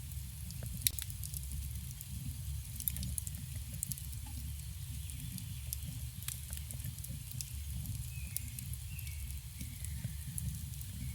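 Campfire burning with a steady low rumble and scattered sharp crackles and pops from the wood. Faint bird calls come in near the end.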